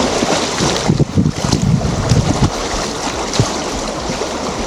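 Rushing river rapids, water churning and splashing, with wind buffeting the microphone as low thumps through the first couple of seconds.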